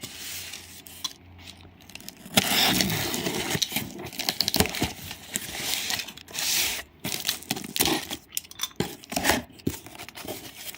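A plastic bag rustling and crinkling as groceries are pulled out of it, with scattered clicks and knocks of packages and cans being handled.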